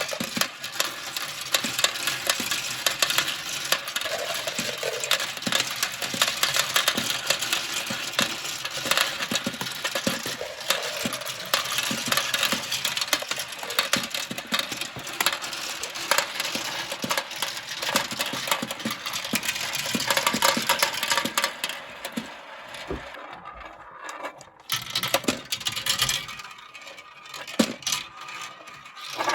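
Many marbles rolling and clattering down a plastic marble-run track: a dense stream of clicks and rattles that thins out twice in the last third.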